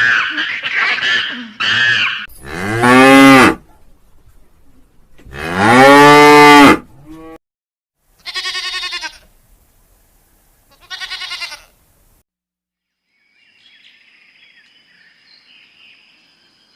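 A cow mooing: two long, loud, low calls a few seconds apart, followed by two shorter, higher-pitched calls. In the first two seconds there is a quick run of short, rising-and-falling animal calls.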